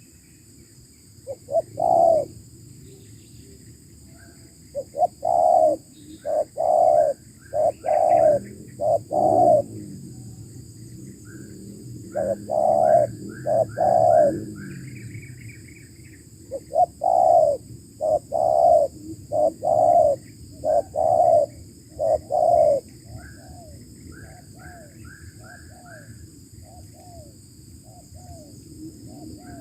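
Spotted doves cooing in repeated phrases of several low notes, with fainter coos near the end. Small birds chirp higher above them, over a steady high whine.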